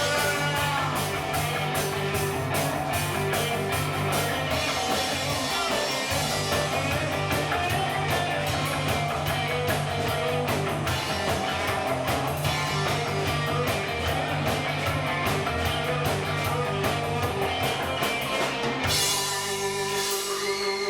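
Rock band playing live, with drum kit, electric guitar and bass; the song ends about two seconds before the end, and applause starts.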